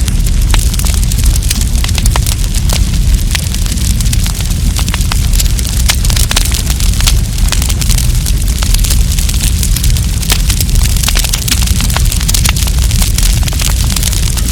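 Wood campfire burning with dense, irregular sharp crackles and pops over a steady low rumble and hiss.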